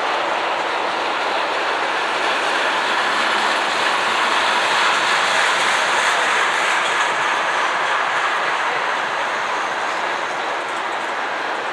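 Train rolling past, a steady loud rush of wheels on rail that swells slightly midway and eases a little near the end.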